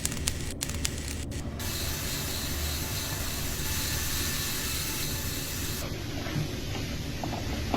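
A few sharp clicks, then a steady spraying hiss from about a second and a half in, which turns duller a little before six seconds.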